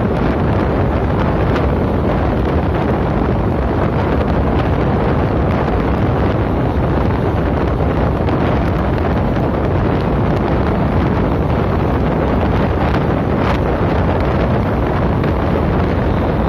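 Wind buffeting the microphone over the steady rumble of a moving passenger train, heard from the coach's open window or door, with a few faint clicks now and then.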